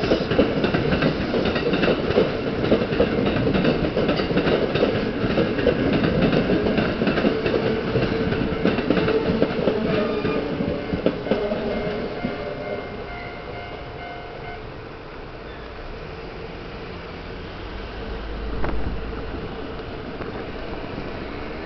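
Kintetsu electric trains running through the station's pointwork, with dense, loud wheel clatter over rail joints and a few steady whining tones, fading away over the first half. Near the end a small motor scooter passes close by with a brief swell of engine sound.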